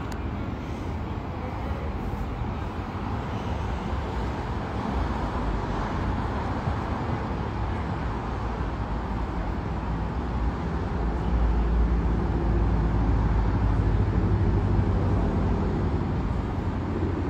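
Steady low rumble of passing vehicles with general street noise, growing louder a little past the middle.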